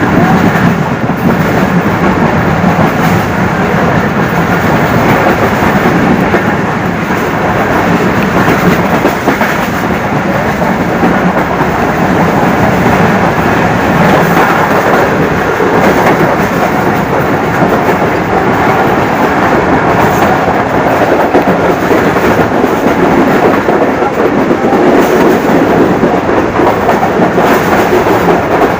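Pakistan Railways' 103 Up Subak Kharam express train running through at speed without stopping: a loud, steady rumble of the coaches' wheels on the rails that holds the whole time.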